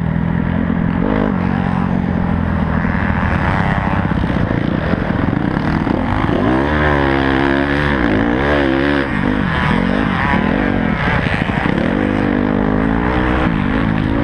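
Honda CRF250 four-stroke motocross bike engine under hard riding, its revs climbing and dropping again and again as the throttle is worked, heard from on the bike with wind rush over the microphone.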